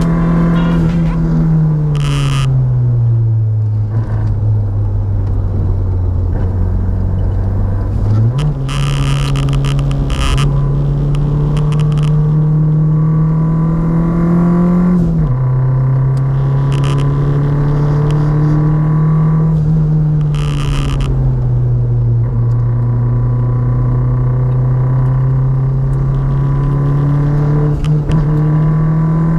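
Road vehicle engine running while driving on the road. Its pitch sinks and climbs with speed, steps up sharply about eight seconds in and drops sharply around fifteen seconds, as with gear changes.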